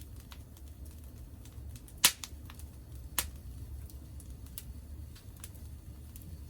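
Wood fire crackling in a Picogrill, with scattered small ticks, a loud sharp pop about two seconds in and a smaller pop about a second later, over a low steady rumble.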